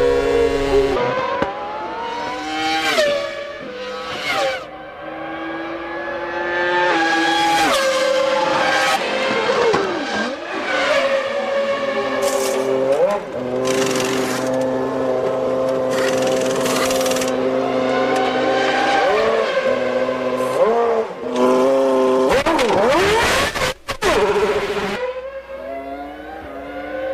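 1997 Formula One race cars' engines running at high revs, with pitch repeatedly climbing through upshifts and dropping on downshifts as cars pass. The sound shifts abruptly several times between different cars and spots on the track.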